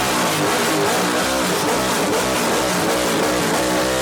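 Car engine revved hard again and again through a loud, open exhaust, its pitch climbing and falling with each blip.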